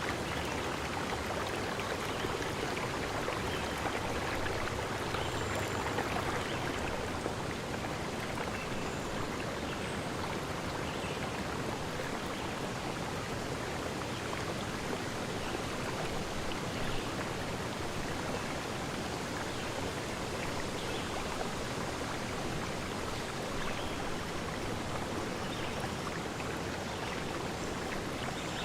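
Water of a stream running steadily.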